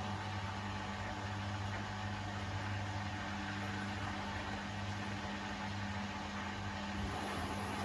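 Beko WTK104121A front-loading washing machine running mid-cycle, its motor giving a steady hum with a faint hiss over it.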